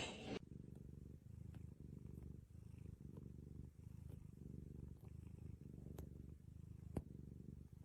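Domestic cat purring close up, a faint low rumble that swells and fades with each breath. A small click sounds about seven seconds in.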